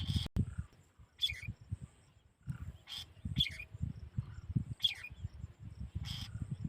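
A small bird giving short, high chirps, one every second or so, over an irregular low rumbling noise.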